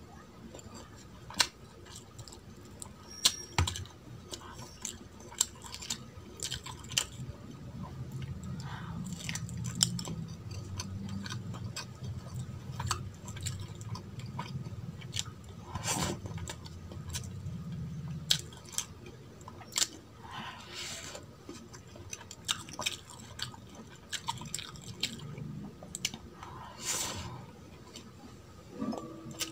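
Close-miked ASMR eating sounds: a person chewing mouthfuls of mutton bhuna and pulao rice, with sharp wet mouth clicks and smacks scattered throughout.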